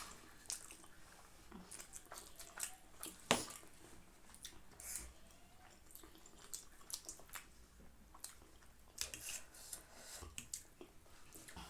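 Faint eating sounds: spicy instant noodles being chewed and slurped, with scattered small wet clicks and one sharper click a little over three seconds in.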